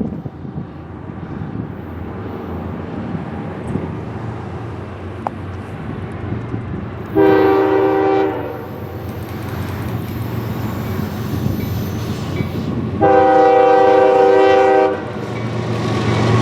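Diesel freight locomotive's multi-chime air horn: a short blast about seven seconds in and a longer one of about two seconds near the end, over the steady rumble of an approaching train.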